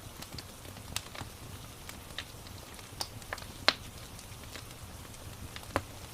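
Crackling wood fire in a fireplace: scattered sharp pops and snaps, the loudest a little past halfway, over a steady low rumble with a soft hiss of rain.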